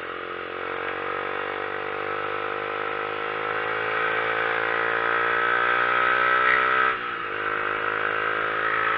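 Motorcycle engine pulling under acceleration, its pitch and loudness climbing slowly; about seven seconds in the pitch drops sharply with an upshift, then starts climbing again.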